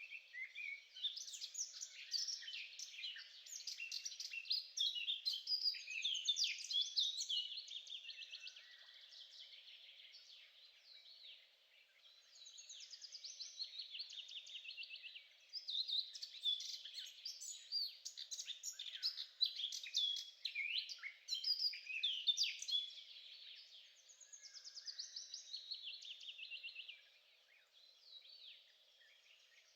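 Songbirds singing: a dense run of rapid chirps and trills in long phrases, with brief lulls about 11, 15 and 27 seconds in.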